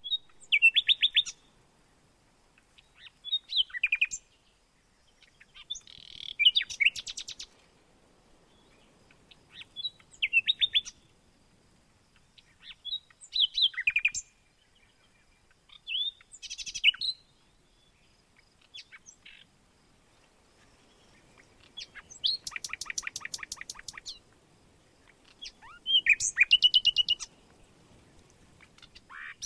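Songbirds singing: short phrases of rapid chirped and trilled notes, repeating about every three seconds, with a longer, evenly pulsed trill about two-thirds of the way through.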